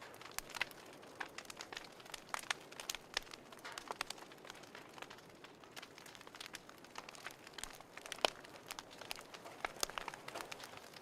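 Wood fire crackling in a fireplace: irregular sharp pops and snaps over a faint hiss, with one louder pop about eight seconds in.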